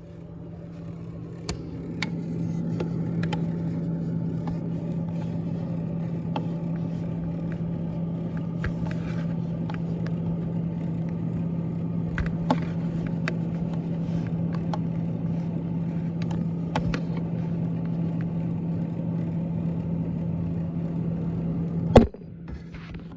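Freezer evaporator fan of a GE GTH18XCTZRBB refrigerator running, a steady low hum with airy noise and scattered small ticks. A loud knock near the end, after which it is much quieter.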